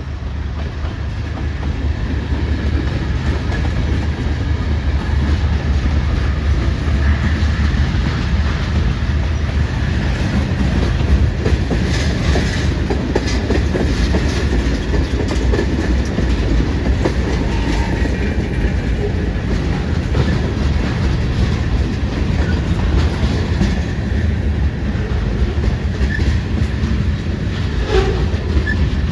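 Freight train cars rolling past at trackside: a steady low rumble of steel wheels on rail, with a running clickety-clack of wheels crossing rail joints.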